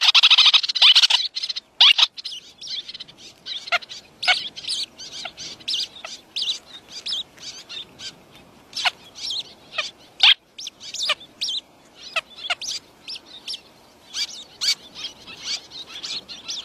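Birds chirping in many short, high calls, with a dense run of chirps in the first second and scattered chirps after.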